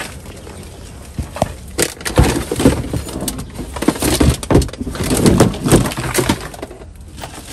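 Rummaging through discarded items: irregular rustling with knocks and clatter as boxes and bags are handled and shifted.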